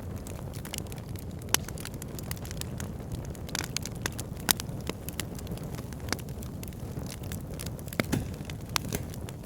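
Fire pit burning with a steady low rumble of flames and frequent sharp crackles and pops. The loudest pops come about one and a half, four and a half, and eight seconds in.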